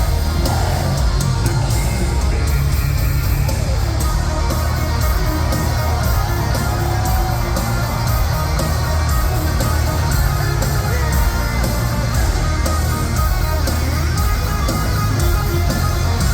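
Heavy metal band playing live: distorted electric guitars over bass and drums, steady and loud.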